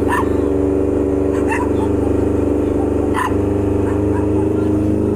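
A vehicle engine running steadily, with a dog barking three times over it.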